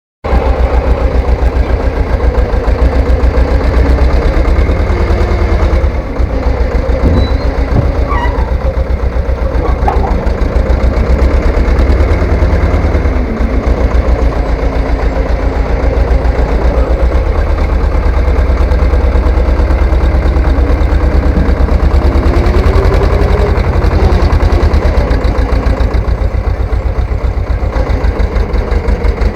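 Three-wheeled farm tractor's engine running steadily with a loud, rapid, even beat.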